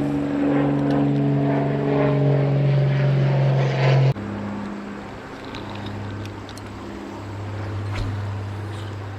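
A steady engine drone, a pitched hum with overtones, that drops suddenly to a lower, quieter hum about four seconds in.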